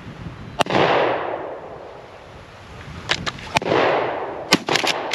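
Two shotgun shots about three seconds apart, each followed by a long rolling echo, then a quick run of short sharp clicks near the end.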